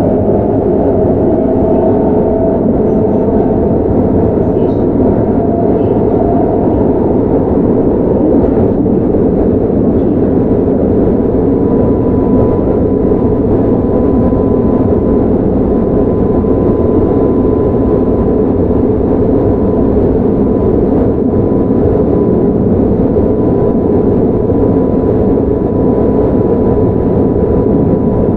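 Running sound of a Keihan 9000 series electric train with Toyo GTO-VVVF traction, on the move at a steady pace: a loud, even rumble of wheels and running gear. A thin steady high tone joins about twelve seconds in.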